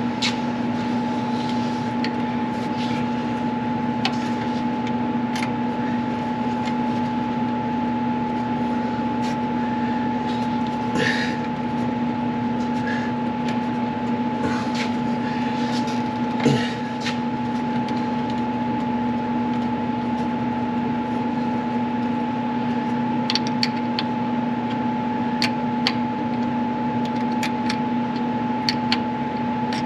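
A steady mechanical hum holding two constant tones, one low and one higher. Scattered sharp clicks and light knocks come over it, clustered about eleven and sixteen seconds in and again near the end.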